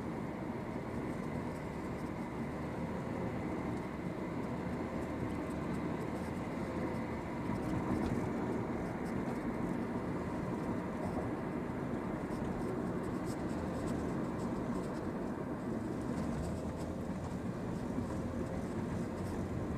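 Steady vehicle noise, as of a car running, with no distinct crash or impact.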